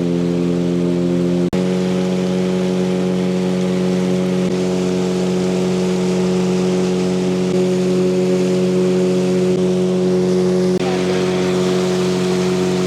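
Boat's outboard motor running at a steady cruising speed, an even, unchanging drone over rushing noise. It drops out for an instant about a second and a half in.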